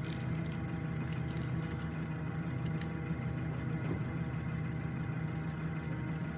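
Safari vehicle's engine running steadily at a low, even hum, with faint scattered clicks.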